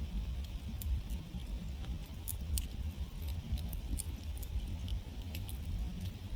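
Wood campfire burning, with irregular sharp crackles and pops of burning wood over a steady low rumble.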